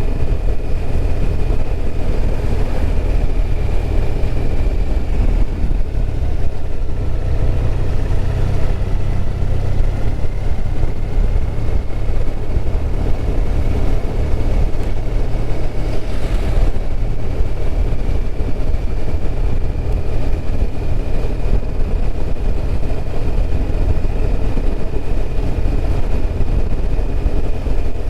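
BMW R1200RT's boxer-twin engine running at a steady cruise while riding, under a constant rush of wind and road noise.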